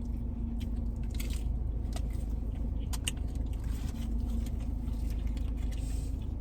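Steady low rumble and hum of a car interior, with scattered small clicks and crunches of people eating.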